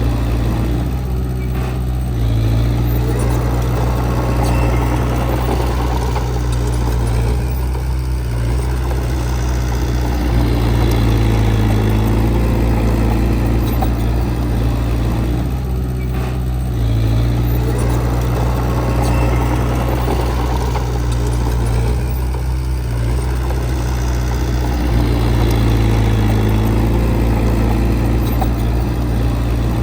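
Heavy diesel engine of earthmoving machinery running steadily, with a low, constant engine note.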